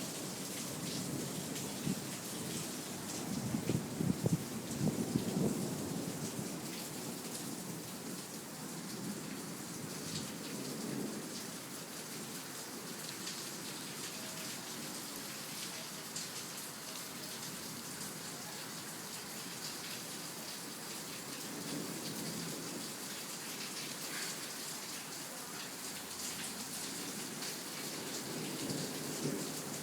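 Heavy rain pouring down steadily, with low rolls of thunder swelling a few seconds in and again near the end.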